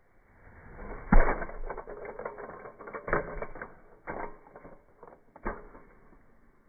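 Mechanical clattering and clicking, with sharp knocks about a second in, about three seconds in, about four seconds in and about five and a half seconds in.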